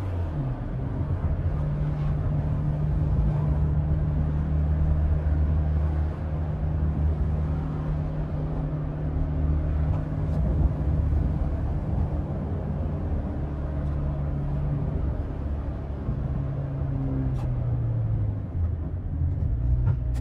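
Peugeot 206's four-cylinder engine, with straight-piped exhaust and open carbon intake, pulling on the road. The revs step up at the start, hold fairly steady, and ease off near the end.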